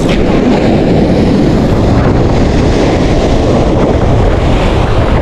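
Strong sea wind buffeting the microphone, with surf washing on the shore: a loud, steady rush of noise, heaviest in the low end.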